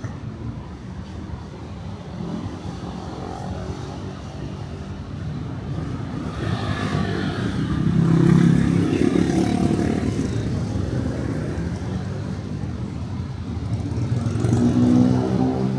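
Street traffic with motor vehicles, including motorcycles, passing close by; the loudest passes come about eight seconds in and near the end.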